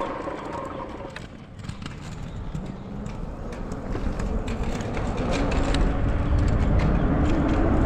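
Riding noise from a fat-tire e-bike: wind buffeting the helmet-mounted microphone over tyre rumble. It dips briefly, then grows louder through the last few seconds, with scattered light ticks along the way.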